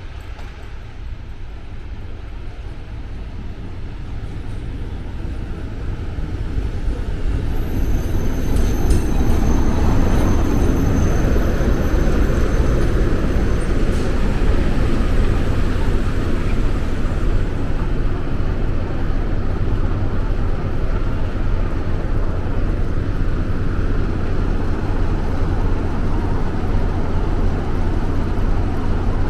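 Regional passenger train at a station, its low rumble growing louder over the first nine seconds or so and then running steady and loud. A thin high whine sounds briefly around a third of the way in.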